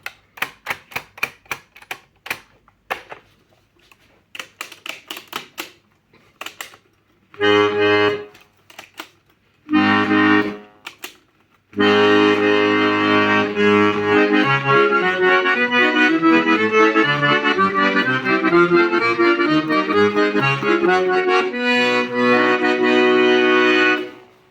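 Hohner Verdi II piano accordion: a quick run of mechanical clicks from its keys and switches for the first six seconds or so, then two short held chords, then continuous playing from about halfway, a pulsing bass under a melody, stopping just before the end.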